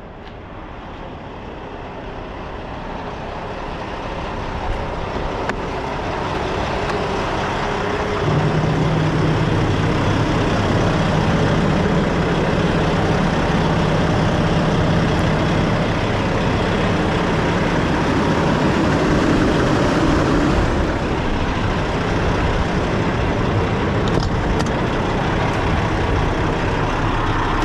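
Truck engine running close by, growing louder over the first several seconds, then a steady drone with a low hum from about eight seconds in.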